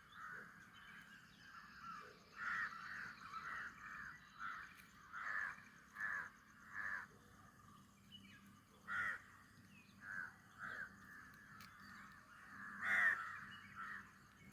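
Crows cawing over and over, a dozen or so separate calls, the loudest near the end.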